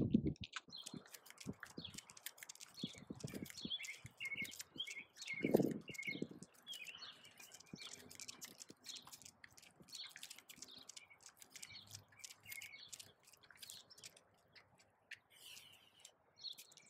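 Birds chirping and tweeting, with faint scattered ticks of footsteps on a concrete sidewalk and one louder thump about five and a half seconds in.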